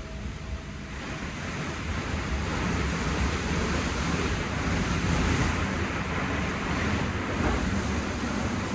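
WashTec SoftCare Pro rollover car wash in its shampoo wash with the 16-bar high-pressure wheel washer. It makes a steady rushing of water spray and rotating wash brushes on the car, growing louder over the first couple of seconds.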